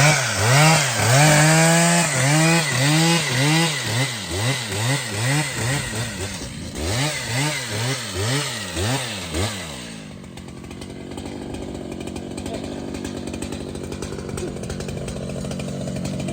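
Large chainsaw engine revved hard in quick repeated throttle blips, the pitch rising and falling about twice a second, then dropping to a steady idle about ten seconds in.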